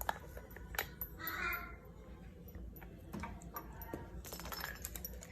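A baby hyacinth macaw gives one short harsh squawk about a second in, among scattered light clicks and taps.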